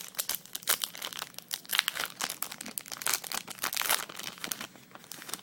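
Foil wrapper of a Magic: The Gathering booster pack crinkling and tearing as it is opened, a dense run of sharp crackles that thins out near the end.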